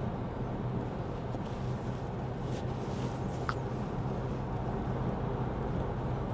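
Steady cabin road noise of a Lexus ES 350 F Sport driving on a wet road: tyre hiss with a low engine hum. A few faint clicks and a brief chirp come about three and a half seconds in.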